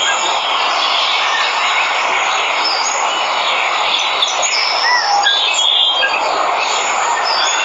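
Steady rush of a waterfall, with birds calling over it in short chirps, small rising-and-falling whistles and a few longer held notes.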